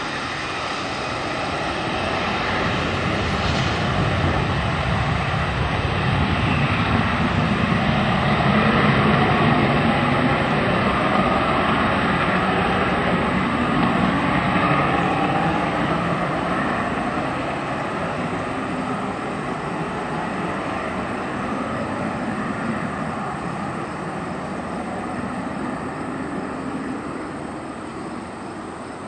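Jet airliner passing at an airport, its engine noise swelling to a peak about a third of the way through and then slowly fading away.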